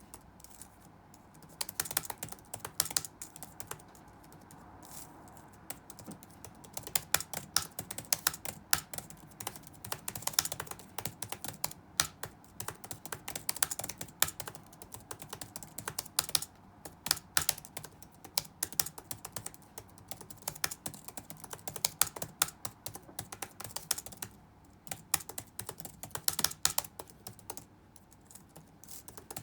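Fast touch-typing on a computer keyboard: quick runs of key clicks, broken by short pauses a few seconds in and again near the end.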